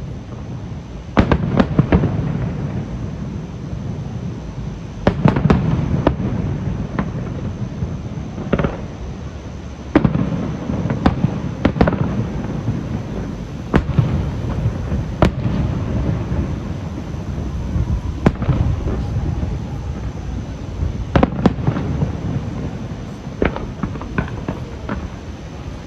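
Aerial fireworks display: a steady run of shell bursts, sharp cracks and deep booms going off every second or so, some in quick clusters, over a constant low rumble.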